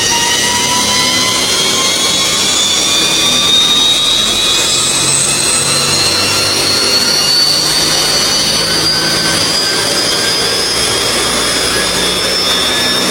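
Sport motorcycle engine held at high revs, its high-pitched whine climbing slowly and steadily, over a constant rush of noise.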